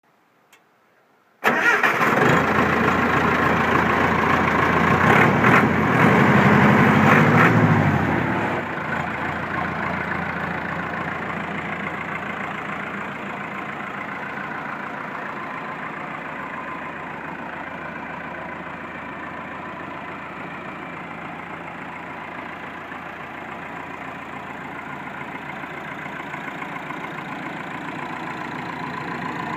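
Perkins 236 four-cylinder diesel engine of a C4 Tree Farmer skidder starting up abruptly about a second and a half in. It runs loud and fast for several seconds, then drops to a steady idle around eight seconds in.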